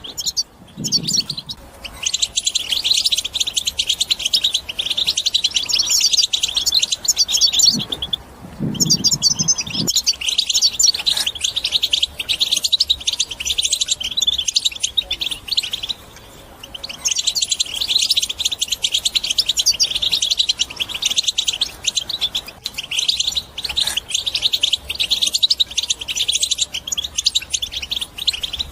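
European goldfinch singing a fast, continuous twittering song of rapid high notes. It breaks off briefly about 8 seconds in and again about 16 seconds in.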